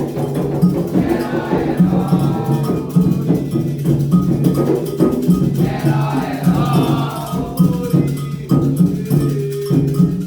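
Candomblé ritual music for Xangô/Ayrá: a struck metal bell, typical of the agogô, and hand drums keep a fast, steady rhythm, with a group singing over it in waves.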